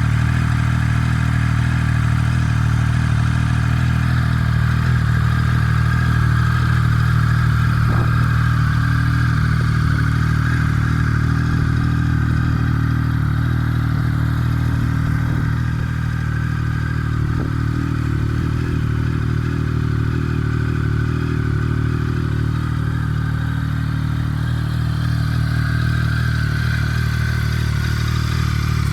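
2007 Triumph Tiger 1050's inline-triple engine idling steadily through an aftermarket Storm GP low exhaust, with a K&N air filter and the airbox dog bone removed.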